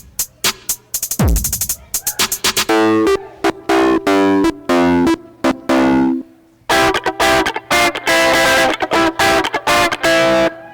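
Electronic remix made with code.org's music tools: chopped, stop-start samples with distorted guitar-like tones. It stops abruptly at the end.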